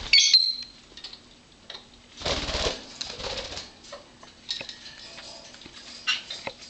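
Pet birds in a cage chirping: a short sharp squawk right at the start, then faint high chirps, with scattered light clicks and taps and a louder rustle about two seconds in.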